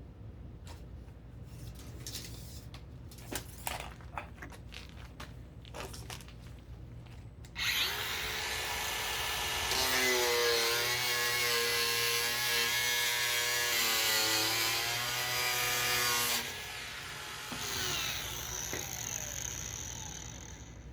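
Light clicks and handling knocks, then a power tool runs loudly for about nine seconds, its motor pitch sagging a little under load as it works on the waste pipe, followed by quieter scraping.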